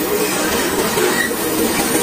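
Railway wagons rolling directly overhead, heard from the ballast between the rails: a loud, steady rumble of steel wheels running on the rails, with a brief high squeal about a second in.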